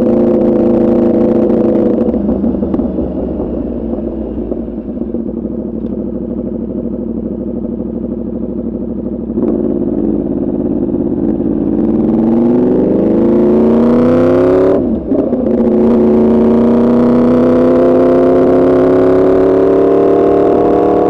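Yamaha R1's crossplane inline-four through an Arrow Pro Racing exhaust, at first running steadily, then off the throttle for several seconds. It then accelerates with a rising pitch, breaks briefly for a quick upshift about fifteen seconds in, and pulls on with the pitch climbing again.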